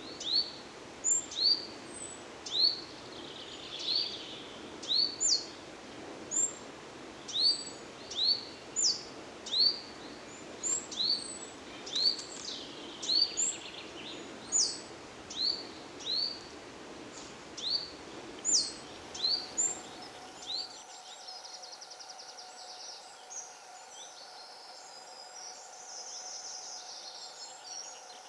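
A bird calling over and over with short, sharp, high chirps, about one or two a second, over a steady outdoor background noise. The chirping stops about twenty seconds in, leaving a fainter background with a faint steady hum.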